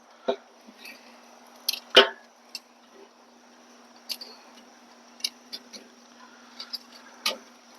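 Metal grilling tongs clicking against the grate of a charcoal kettle grill as chicken thighs are flipped: a scattering of sharp clicks, the loudest about two seconds in. A faint steady hum sits underneath.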